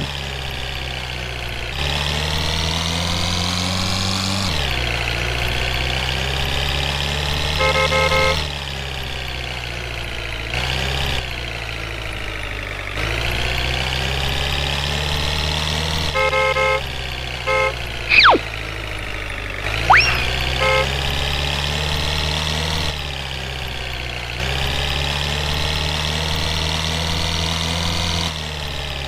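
A truck engine drone that shifts in pitch and level every few seconds, with several short horn toots partway through.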